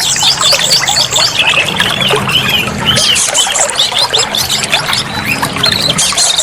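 Oriental magpie-robin (kacer) singing a fast, varied stream of chirps and whistles, over a steady background noise.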